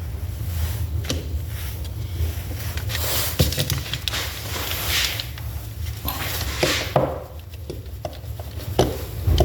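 Scattered clicks and short scrapes of small metal distributor parts being handled while a bearing and oil seal are fitted onto the shaft, over a steady low hum.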